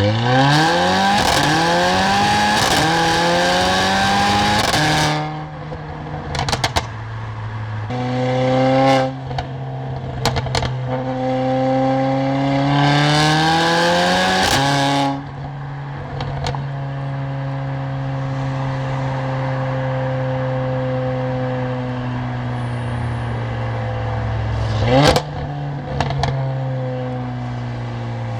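Mercedes-AMG car exhaust under hard acceleration, rising steeply in pitch, then cutting off on lift-off about five seconds in with a run of crackles and pops. Two more pulls follow, then a steady cruise, and a short sharp blip with crackles near the end.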